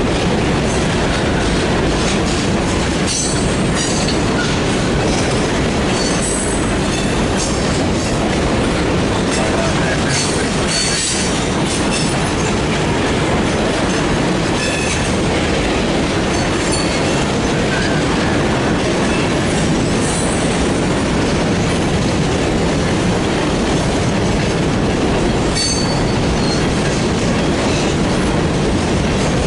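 Freight train rolling past close by: a steady rumble and clatter of wheels over the rails, with brief high wheel squeals now and then.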